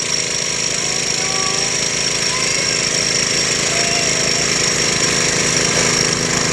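Garden tractor engine running steadily under load, its firing heard as a rapid, even low pulsing.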